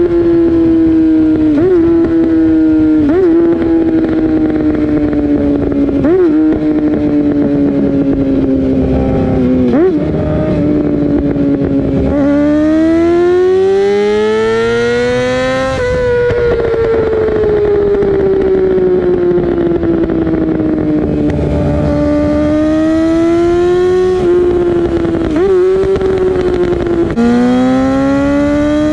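2018 Yamaha R6 inline-four engine running through an Akrapovic Evolution GP full titanium exhaust, its pitch sliding down slowly, then climbing hard as it revs before falling sharply about halfway through. It eases off again and rises once more near the end, with several short blips along the way.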